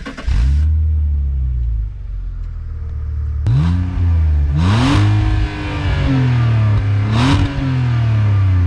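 BMW E46 330Ci's 3.0-litre inline-six cold-starting: it catches at once and settles into a fast idle. Over the following seconds it is revved three times, each rev rising and falling back quickly.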